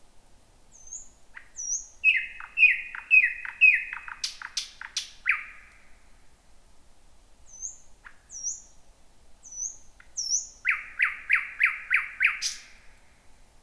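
Thrush nightingale singing at night: two song phrases, each a quick run of about five or six repeated falling notes. The first phrase ends in a few loud sharp clicks.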